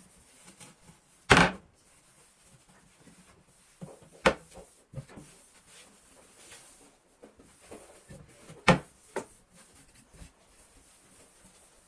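A few sharp household knocks and clatters, like things being set down or a cupboard door shutting. The loudest comes about a second in and two more follow later, with fainter clicks between them.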